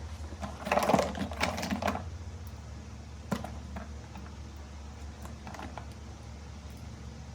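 A quick run of clicks and clatter from small hard objects being handled, then one sharp click and a few faint ones, over a steady low electrical hum.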